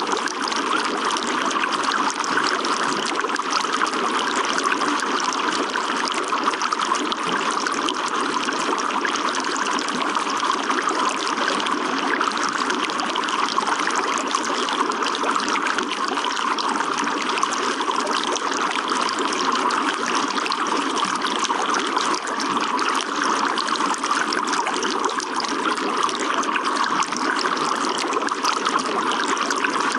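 Running water trickling steadily without a break.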